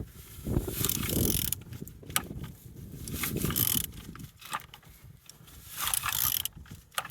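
Engine being turned over by hand: mechanical clicking and scraping with several rushes of hiss as the cylinders come up on compression. The engine turns freely, with compression on all cylinders.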